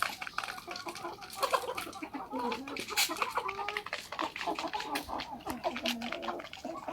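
Domestic chickens clucking, many short overlapping calls, with frequent small clicks and taps among them.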